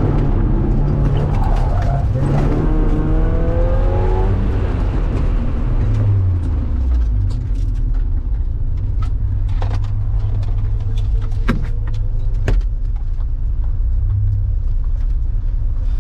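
Supercharged Mazda Miata NB's four-cylinder engine heard from inside the cabin as the car slows down. For the first few seconds the engine note rises and falls, then it settles into a low steady running sound at low speed. A few short sharp clicks come around the middle.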